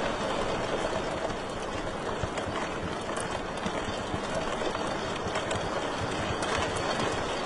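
Wood fire crackling in a fireplace: a steady hiss and rumble with frequent small pops and snaps scattered throughout.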